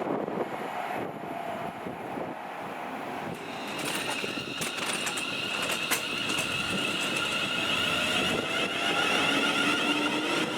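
A train approaching through the station: a steady high-pitched whine sets in a few seconds in and grows louder, and lower tones rise in pitch near the end.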